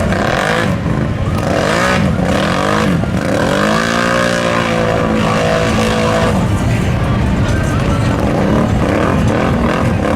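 Mud truck's engine revving hard, its pitch climbing and falling again and again, with a longer rev held in the middle.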